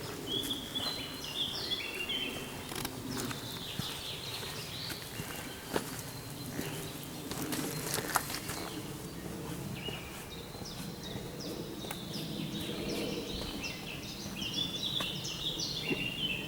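Birds singing: runs of quick, high stepped notes near the start, again midway, and again in the last couple of seconds, over steady outdoor background noise with a few small clicks.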